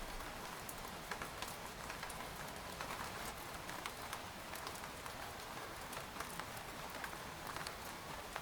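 Steady rain pattering on tent fabric, a continuous hiss dotted with many separate drop ticks.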